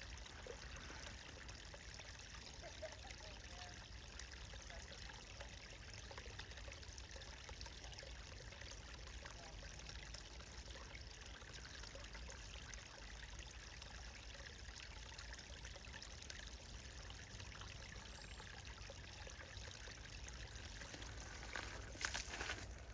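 Small meadow brook trickling steadily, a faint even rush of running water. Footsteps start near the end.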